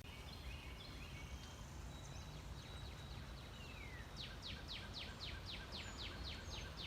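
A songbird singing faintly over a low steady outdoor background: scattered high chirps, then from about four seconds in a quick run of about a dozen downslurred notes, roughly four a second.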